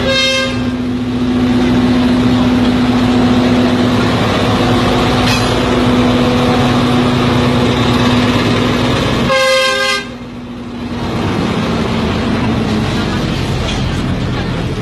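Train horn sounding in two short blasts, one at the start and one about nine seconds in, over the steady rumble of a train and a low, even hum.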